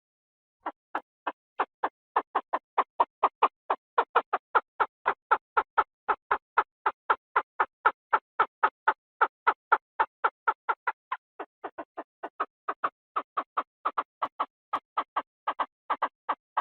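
Chinese francolin calling: a long, even run of sharp notes, about four a second, starting abruptly just under a second in and briefly softer about eleven seconds in.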